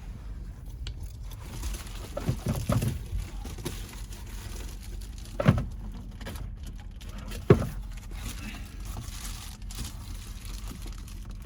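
A few short knocks and thumps: a small cluster about two seconds in, then two single sharper ones later, over a low steady rumble.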